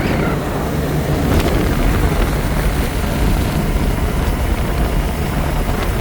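Motorboat under way: the engine runs steadily with a constant hum, under a continuous rushing noise.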